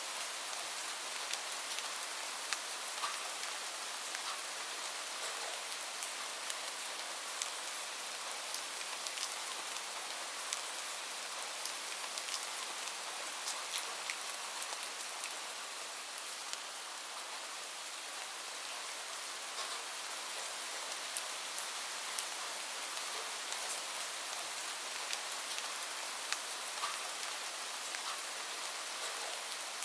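Steady rain falling, an even hiss with many sharp individual drops ticking through it.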